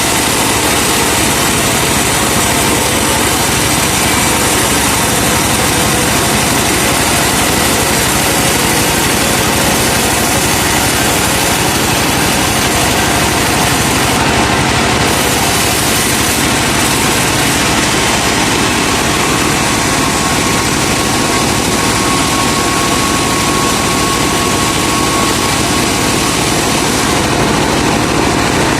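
Truck engine running steadily and loudly, powering a sawmill.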